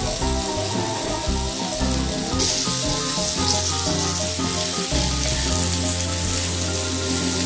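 Cut guava pieces sizzling in hot oil in a nonstick pan as they are stirred with a silicone spatula, with background music of held notes playing over it.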